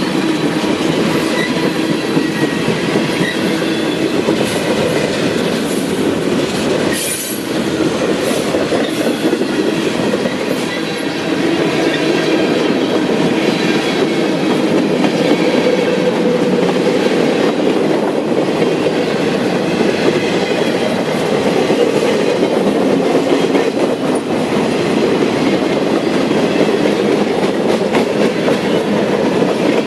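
Freight train's cars rolling past at steady speed, a continuous loud rumble of steel wheels on rail.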